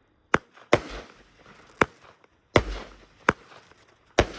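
A 20-shot 500 g consumer firework cake firing: six sharp bangs, spaced a little under a second apart, two of them trailing off in a longer fading rumble.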